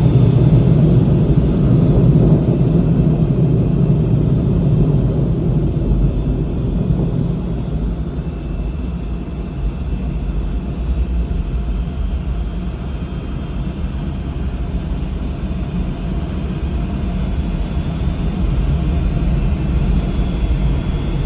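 Steady low mechanical rumble, heaviest for the first several seconds and easing off to a lower steady level after about eight seconds.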